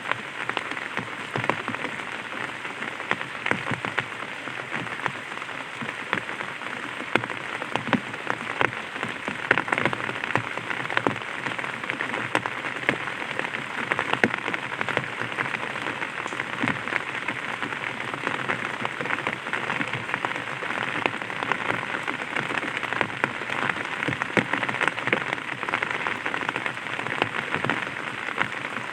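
Light rain falling on an umbrella canopy: a steady hiss with many small, irregular drop hits.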